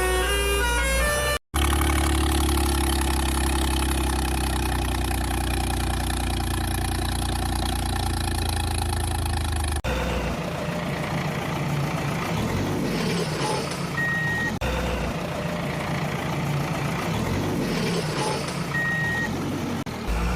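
Truck engine running steadily with a strong low hum; about halfway through it changes to a rougher, noisier engine sound that swells twice, with two short high beeps. Brief music plays at the very start.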